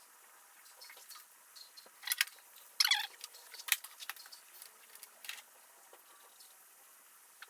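Scattered light metallic clicks and clinks of hand tools and small engine parts being handled, with a short rattle about three seconds in.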